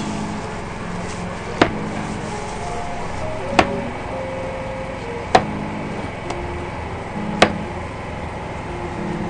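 A knife chopping, four sharp strokes about two seconds apart, over a steady low hum.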